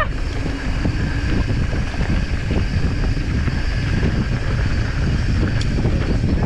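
Wind buffeting the microphone of a GoPro on a mountain bike riding fast downhill on a dirt trail, a steady loud rush with low rumble.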